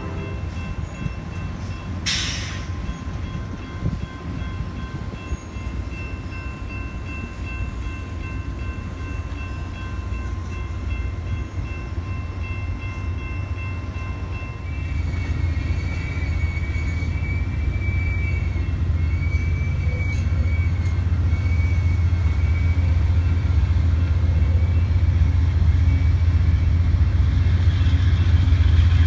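Amtrak passenger train approaching and moving slowly in reverse: a low diesel rumble that grows steadily louder, with a sharp short noise about two seconds in. From about halfway a high, wavering squeal rides over the rumble.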